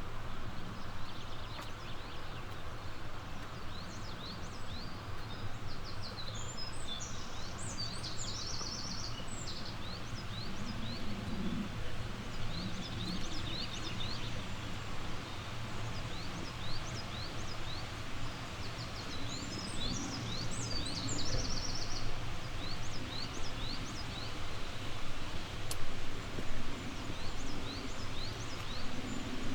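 Steady rushing of a flowing mountain stream, with songbirds singing over it. Short high chirps repeat throughout, and a longer, fuller song phrase comes twice: about a quarter of the way in and again about two-thirds of the way through.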